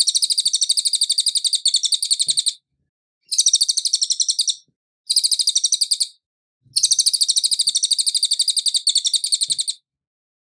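Cililin songbird singing fast, high, rattling trills of rapidly repeated notes, in four bursts of about one to three seconds each with short pauses between them; the song stops about a second before the end.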